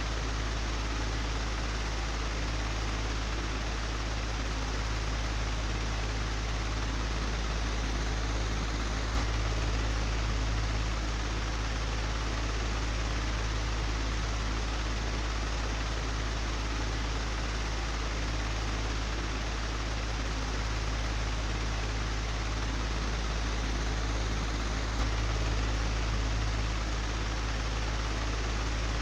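Old, broken electric fan running with a steady whooshing noise over a low hum, with a faint tick about nine seconds in and another later on.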